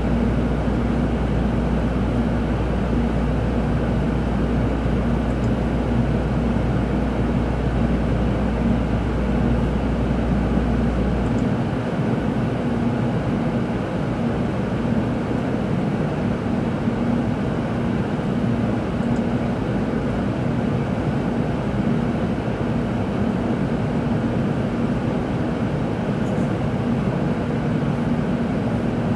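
Steady interior noise of a Tokaido Shinkansen train carriage: an even rumble with a steady hum. A deep low drone underneath cuts off about eleven seconds in.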